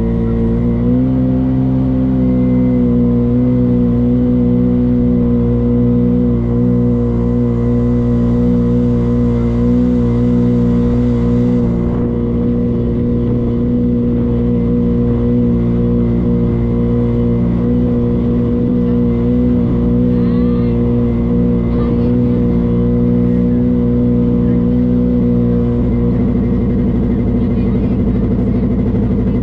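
Motorboat engine running at a steady high speed, its pitch stepping up slightly about a second in and then holding.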